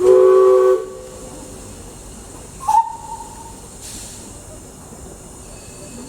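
Steam locomotive whistle sounding one short blast of just under a second, a chord of several tones at once. About two and a half seconds later a brief, higher single-note whistle sounds.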